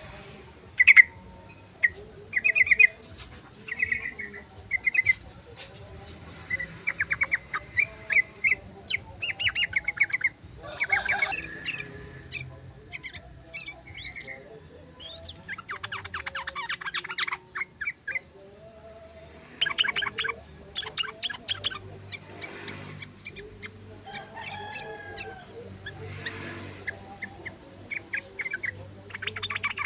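Yellow-vented bulbuls (trucukan) singing and chattering, with short bubbly phrases of rapid notes repeated every second or two and several birds overlapping.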